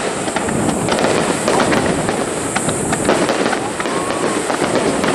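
Aerial fireworks shells bursting overhead in a continuous dense crackle.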